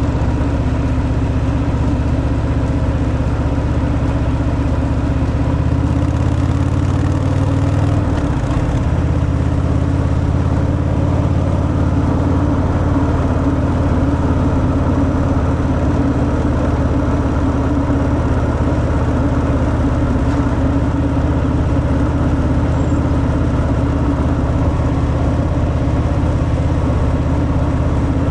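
Stock Harley-Davidson Fat Boy's V-twin idling steadily through its stock exhaust just after start-up, with a brief shift in the idle note about eight seconds in.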